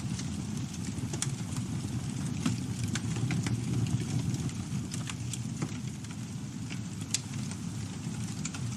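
Wood campfire burning: a steady low rumble of flames with scattered sharp crackles and pops from the burning wood, one louder pop about seven seconds in.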